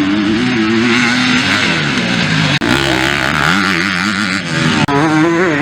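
250cc four-stroke motocross bikes racing, their engines revving up and down with the throttle and gear changes. The sound breaks off abruptly twice, about halfway through and again near the end. Just before the end the engine note wavers quickly.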